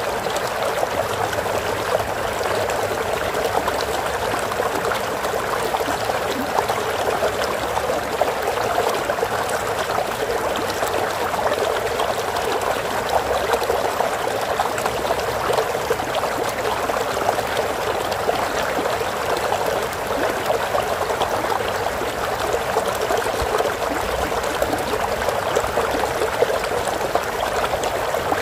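Water flowing steadily over rocks in a stream, with a continuous trickling and gurgling rush.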